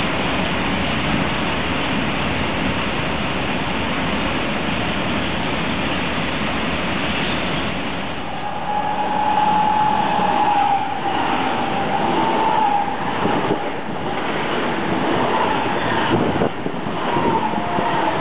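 Wagons of a ballast train rolling past with a steady rushing noise. About eight seconds in, an ICE 3 high-speed train passes close by, louder, with a high tone that bends up and down over its rolling noise.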